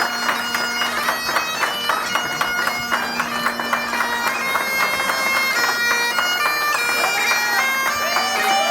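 Bagpipes playing a tune over a steady drone, the melody notes changing quickly above the held drone.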